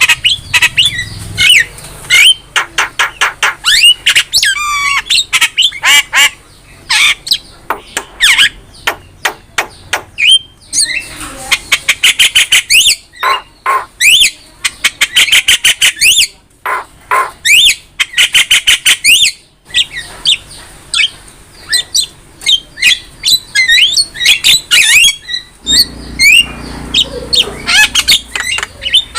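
Javan myna (jalak kebo) singing a loud, varied song: fast runs of harsh clicks and rattles mixed with squawks and short rising whistles.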